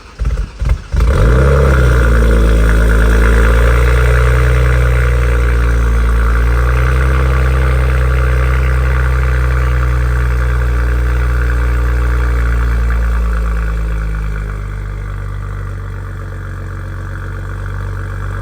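BMW M240i's turbocharged 3.0-litre inline-six cold-starting through a titanium exhaust with its valves open. The starter cranks for about a second, then the engine catches and holds a loud, fast cold idle. It settles to a lower idle a couple of seconds before the end.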